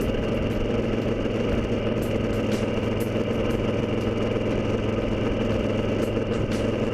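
Moto Guzzi Griso's V-twin engine running steadily at a constant engine speed.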